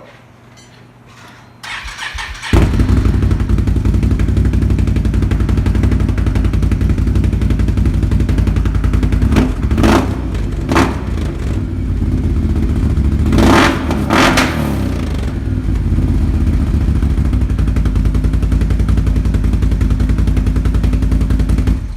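A 2019 Can-Am Renegade 1000R XXC's V-twin engine, fitted with an aftermarket Yoshimura exhaust, is cranked by its starter about two seconds in, catches and settles into a loud idle. It is blipped a few times in the middle before dropping back to idle.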